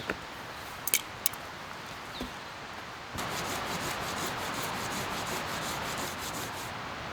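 Hand saw cutting through a wooden log in quick, even strokes, starting about three seconds in and stopping near the end, after a few light clicks.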